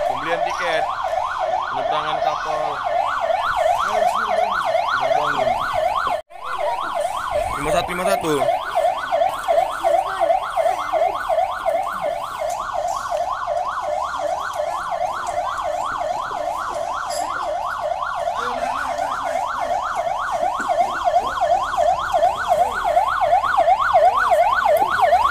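Electronic siren in a rapid yelp, its pitch sweeping up and down about four times a second, with faint voices underneath. It cuts out for a moment about six seconds in, then carries on unchanged.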